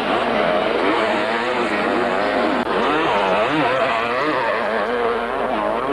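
Several motocross motorcycles racing, their engines revving up and down and overlapping as the riders work the throttle around the track.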